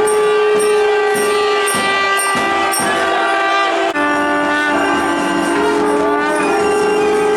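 Tamil temple festival music: loud double-reed wind instruments of the nadaswaram type hold long sustained notes over a steady drone, changing pitch about four seconds in. Sharp metallic strikes repeat about twice a second.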